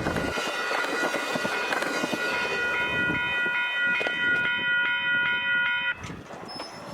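Amtrak passenger train passing at speed, its wheels clattering over the rails, with a steady high ringing from the rails and wheels that comes in about halfway through. The sound drops away sharply near the end.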